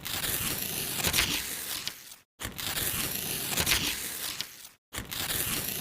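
Perfume packaging being handled and torn open, with crinkling and tearing in stretches of about two seconds, each cut off abruptly.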